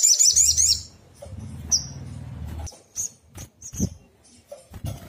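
Olive-backed sunbird song: a rapid high trill that stops about a second in, then short, sharp single chirps every second or so. A low hum runs under the first half, and a few dull low thumps come near the end.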